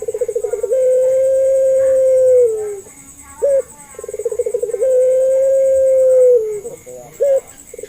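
Puter pelung dove cooing, two full calls. Each is a short note, then a quick stuttering run, then a long drawn-out coo held steady that falls away at the end.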